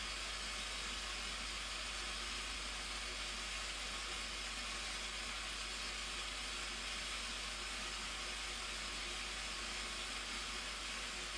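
Steady rushing hiss of a waterfall, even and unbroken, with most of its energy in the upper range.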